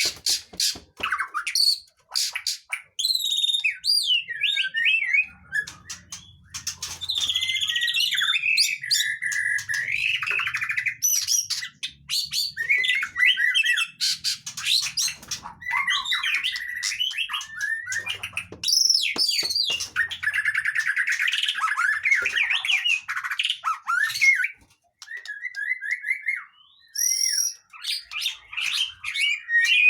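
Songbird singing in a rapid, varied stream of chirps, trills and whistles, with a short break about 25 seconds in. It is a 'pancingan' song, played to coax caged songbirds that are reluctant to sing into singing.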